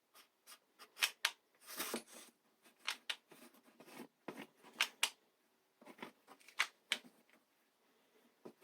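Irregular small clicks and scrapes of hot-glue work: a glue gun's trigger worked and craft pieces handled and pressed, the newly loaded glue stick not yet heated up.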